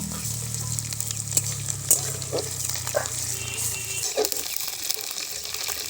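Onions and ginger-garlic paste frying in hot mustard oil, a steady sizzle with scattered crackles and pops.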